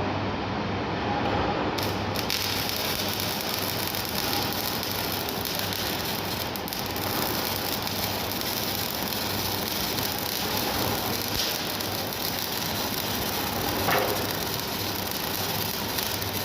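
Electric arc welding: the arc strikes about two seconds in and keeps up a steady crackling hiss, over a low steady hum.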